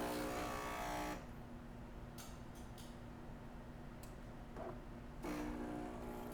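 DeLonghi Gran Dama superautomatic espresso machine running a test shot: its newly replaced grinder buzzes and stops about a second in, a few mechanical clicks follow, and a steady pump hum starts about five seconds in as brewing begins, over a faint constant machine hum.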